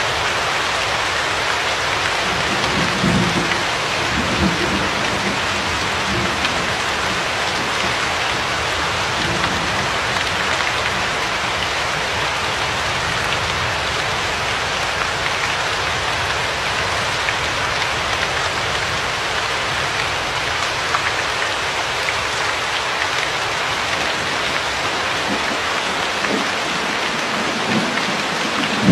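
Steady heavy rain falling on a surface. Low rumbles of thunder come about three seconds in and again near the end.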